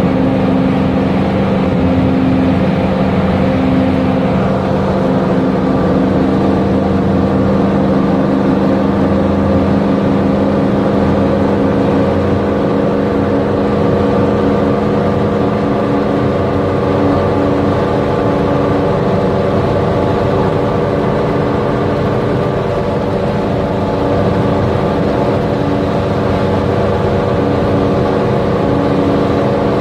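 1975 Ford Bronco's engine running at a steady highway cruise, heard from inside the cab over tyre and wind noise.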